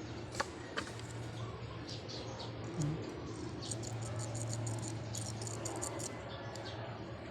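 Small, irregular clicks and light scratching from working and cleaning a scooter's plastic turn-signal switch, which is sticking stiff, over a steady low hum.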